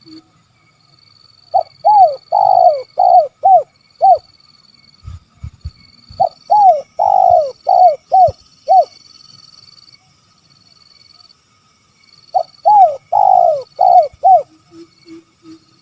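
Spotted dove (tekukur) cooing: three phrases of short rising-and-falling coos, each with one longer, drawn-out note in the middle, spaced a few seconds apart. A few softer, lower coos follow near the end.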